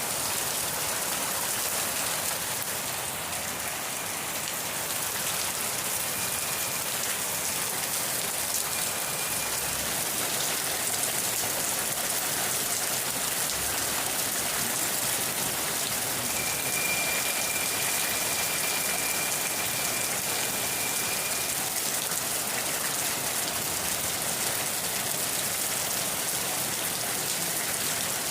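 Steady rain falling, an even, unbroken hiss. A faint high thin tone sounds twice over it, briefly about a quarter of the way in and for about five seconds in the middle.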